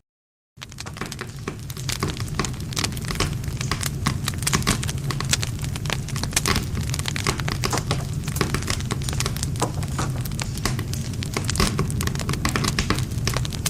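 Wood campfire crackling: dense, irregular snaps and pops of burning wood over a steady low rumble of the flames. It cuts in about half a second in, after a brief moment of dead silence.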